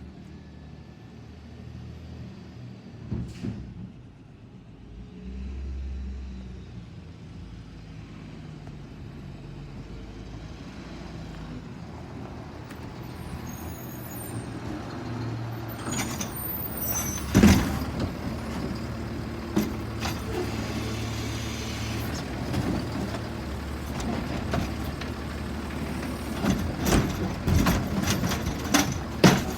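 Autocar Xpeditor garbage truck with a Bridgeport Ranger automated side loader, its diesel engine running and growing louder. A loud bang comes about halfway through, and several more bangs and clanks come near the end.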